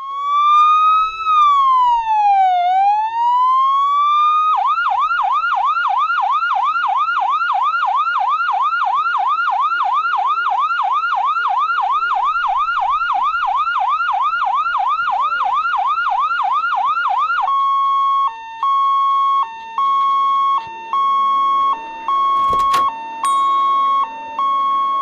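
Electronic toy siren sound effect playing loudly from a kiddie ride. It opens with a slow rising-and-falling wail, switches about four seconds in to a fast yelp of about three whoops a second, and a little past halfway changes to a steady beeping tone in roughly one-second pulses, with one sharp click near the end.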